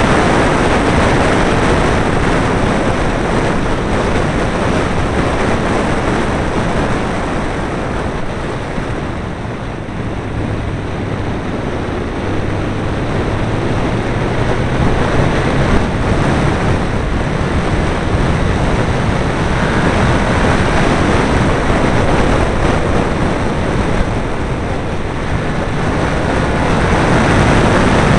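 Caterham 7 running at speed on track, its engine heard under heavy wind buffeting on the small open-cockpit camera's microphone. The engine note and overall level drop for a few seconds about a third of the way in, then build again.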